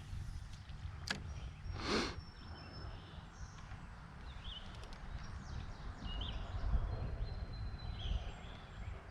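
Outdoor river ambience: short bird chirps every second or two over a low rumble, with a sharp click about a second in and a brief whoosh about two seconds in.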